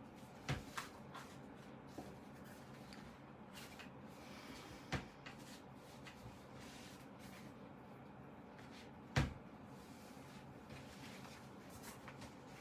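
Handling sounds: a few short, sharp knocks and taps spread apart, the loudest about nine seconds in, over a faint steady background.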